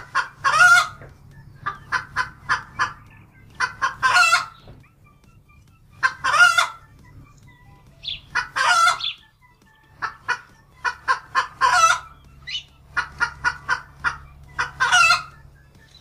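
Hens clucking and cackling: runs of quick, short clucks, each ending in a longer drawn-out call, repeated about six times.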